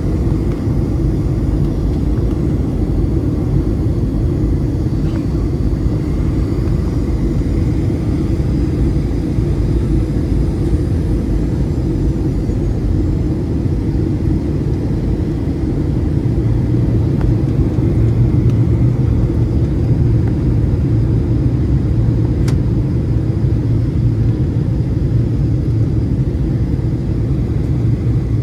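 Cabin noise of a Boeing 737-700 taxiing after landing: a steady low rumble from its CFM56-7B engines at idle, with a faint high whine. The rumble grows a little louder about halfway through, and a single click sounds late on.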